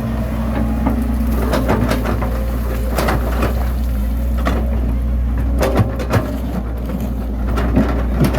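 Bulldozer's diesel engine running steadily under load, with scattered sharp clanks and knocks from the machine's tracks and blade working through soil.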